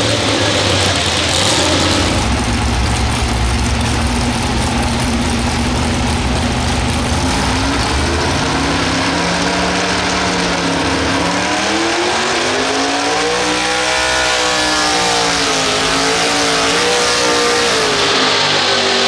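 Pulling tractor's engine running hard at high revs during a pull; about halfway through its pitch climbs, peaks, drops and climbs again as the revs change.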